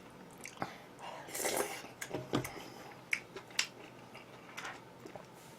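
Quiet eating sounds: a scatter of light clicks and taps from utensils and dishes, with soft mouth noises of eating.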